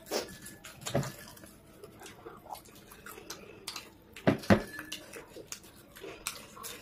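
Close-up eating sounds of people chewing fries: irregular wet mouth smacks and clicks, the loudest pair about four and a half seconds in.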